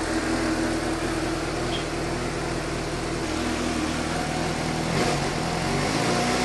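2015 Suzuki GSX-S750's inline-four engine idling steadily, freshly filled with full-synthetic 10W-40 oil; its mechanical engine noise and valve-train clatter are noticeably quieter.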